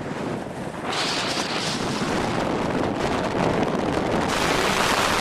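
Gale-force wind buffeting the microphone, strengthening in gusts about a second in and again past four seconds, over the rush of surf.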